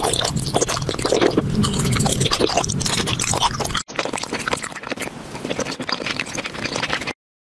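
Close-miked eating sounds of candy being chewed: wet, dense crackling full of small clicks. It breaks off for a moment about four seconds in, then resumes and stops near the end.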